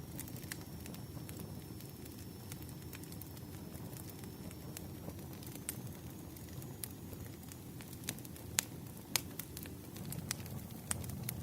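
Burning firewood crackling: a low steady rush of flame with scattered sharp pops and snaps, a few louder pops in the second half.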